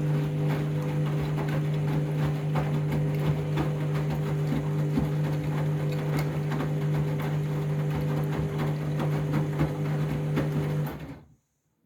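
Candy washing machine running during a rinse: a steady hum at one pitch under crackling, gurgling water noise, cutting off suddenly about eleven seconds in.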